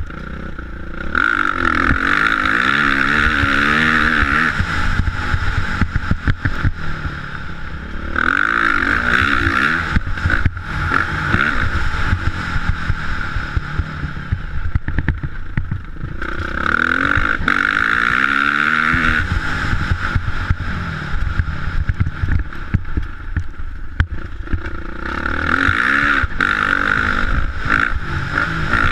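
Motocross motorcycle engine revving up and down through the gears, its pitch rising and falling. It surges loud about every eight seconds, four times in all.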